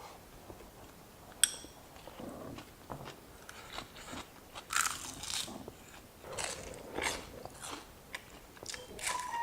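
A person chewing and crunching food close to the microphone, in irregular bites that grow louder after about four seconds. Near the start there is a single sharp clink.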